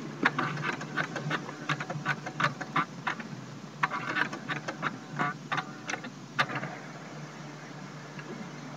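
Brother FAX-565 fax machine's mechanism clicking and whirring as it initialises after power-on. There is a run of clicks for about three seconds, a short pause, then a second run that stops after about six and a half seconds, leaving a low steady hum.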